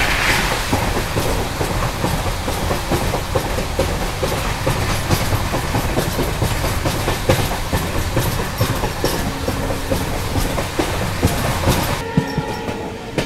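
Passenger train running along the track: a steady rumble with the wheels clattering over rail joints in many sharp clicks. It cuts off suddenly about twelve seconds in.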